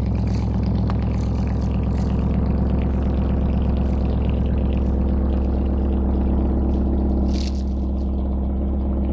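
BMW V8 with a straight-piped exhaust, idling steadily just after a cold start, loud and even.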